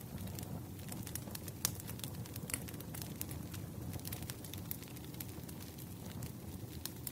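Wood fire burning with irregular crackles and pops over a steady low rumble of the flames; the sharpest pops come about one and a half and two and a half seconds in.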